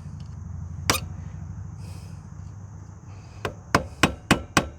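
Hammer striking metal on an ATV drive chain's rusted master link: one sharp knock about a second in, then a run of quick, even taps, about three or four a second, starting near the end.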